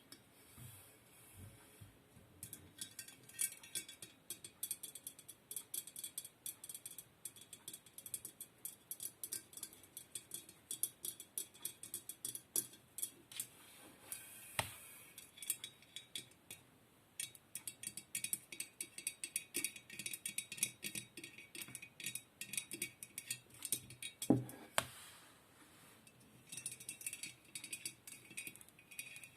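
ASMR trigger sounds: a dense, irregular run of quick, light taps and clicks on small hard objects, with a couple of sharper knocks in the middle and near the end.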